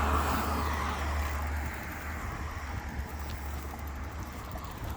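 A car passing by, its engine and tyre noise fading away into the distance.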